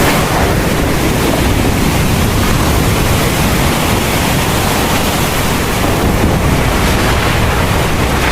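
Heavy rain pouring steadily, with a continuous deep rumble underneath.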